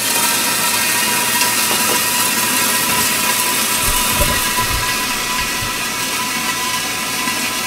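Chicken breasts frying in very hot oil in a lidded frying pan, a steady loud sizzle. A few low thumps sound about halfway through.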